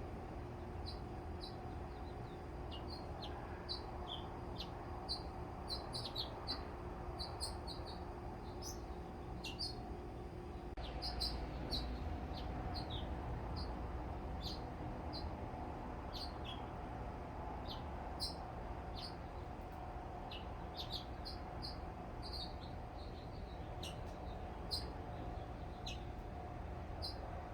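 Small birds chirping: many short, high chirps, some in quick runs, over a steady low background murmur.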